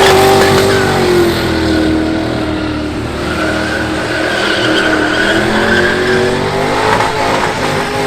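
Burnout car engine held at high revs while the rear tyres spin and squeal on the pad. The revs sag about three seconds in and then climb back up.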